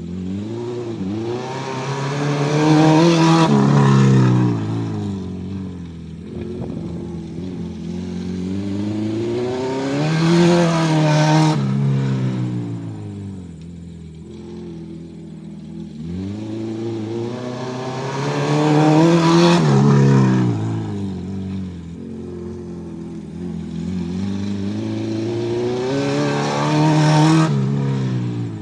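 Acura RSX's four-cylinder engine lapping a small dirt track, revving up and easing off four times, about every eight seconds. These are test laps to check that new transmission detent springs keep it from popping out of gear.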